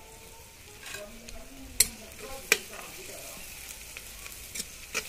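Sliced onions sizzling in hot oil in a black iron kadai while a steel ladle stirs them. The ladle knocks sharply against the pan twice about two seconds in, with lighter taps and scrapes near the end.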